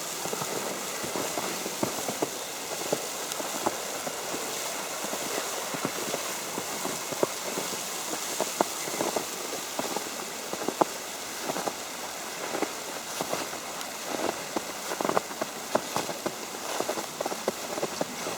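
Falling wet snow ticking irregularly on an umbrella canopy, a scatter of small taps over a steady hiss.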